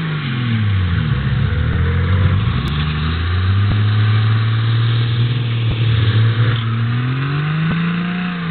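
Car engine revving: the revs drop in the first second or so, hold steady at a moderate speed for several seconds, then climb again near the end.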